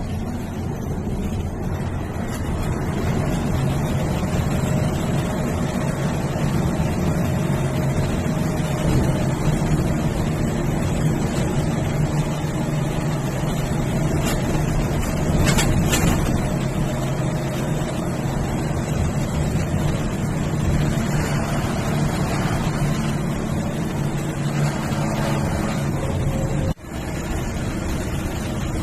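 MSRTC bus's diesel engine running steadily under way, with road and wind noise. There is a brief louder clatter about halfway through, and the sound drops out for an instant near the end.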